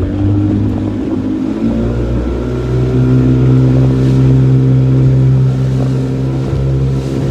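Small fishing boat's engine running under throttle, stepping up in pitch about two seconds in and then holding a steady higher note as the boat moves off.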